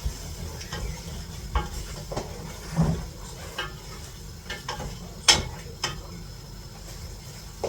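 Food sizzling in a frying pan as it is stirred, with a utensil knocking against the pan every second or so; the loudest knock comes a little past halfway.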